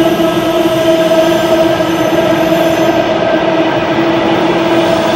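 Transperth B-series electric train moving along an underground station platform. It gives a loud, steady whine of two held tones over the rumble of the cars.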